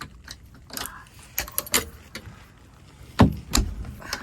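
Coop door being shut and latched: scattered small metal clicks and rattles, then two heavy knocks about three seconds in.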